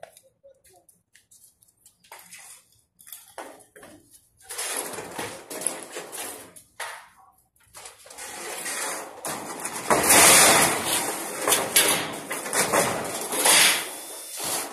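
Corrugated sheet-metal panels being picked up, shifted and dragged, rattling and scraping in uneven stretches, loudest about two-thirds of the way through.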